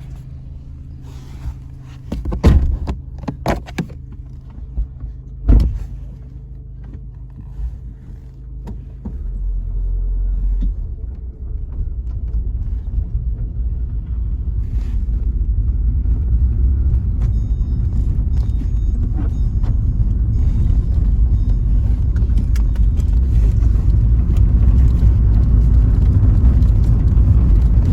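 Car running, first standing at idle with a few sharp knocks, then moving off about nine seconds in, with a low road rumble that grows steadily louder.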